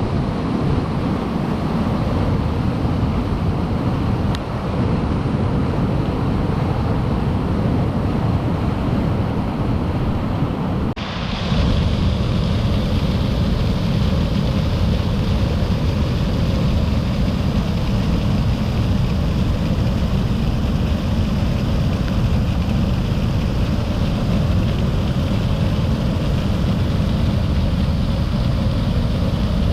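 Steady rushing of a rain-swollen mountain river in flood. About eleven seconds in it cuts to a waterfall, a more even rush with more hiss.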